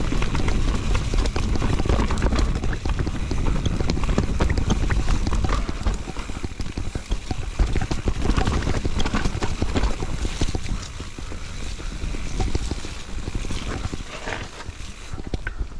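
Mountain bike riding down a rough trail: wind buffeting the microphone over a constant clatter of tyres, chain and frame knocking over roots and rocks. It gets quieter in the second half.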